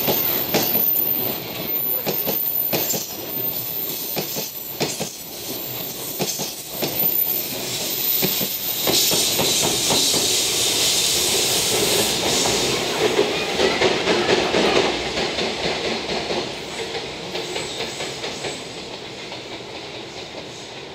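Empty container flatcars of a freight train rolling past with the clickety-clack of wheels over rail joints. About ten seconds in, the rear helper locomotive, a JR Freight EF210 electric, passes close with a louder rush of noise. The sound then fades as it draws away.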